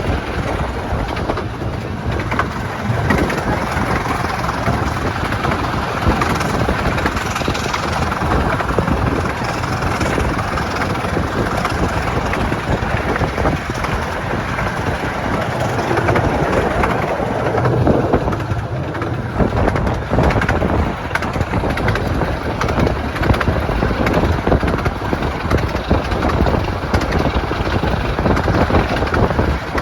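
Miniature railway train on the 15-inch-gauge Romney, Hythe & Dymchurch line running along the track: a steady rumble and rattle of wheels on rail, with many small clicks throughout.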